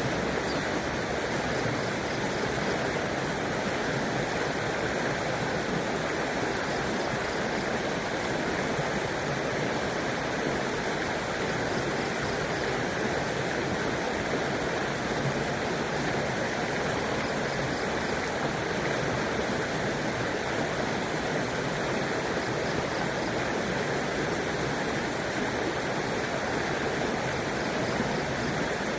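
A river flowing with a steady rush of water, unchanging throughout.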